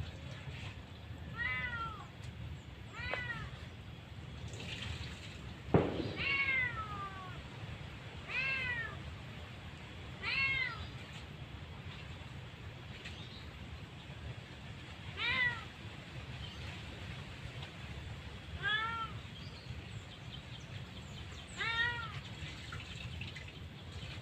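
A cat meowing again and again, about eight separate calls, each rising and falling in pitch. One sharp knock about six seconds in is the loudest sound, over a steady low hum.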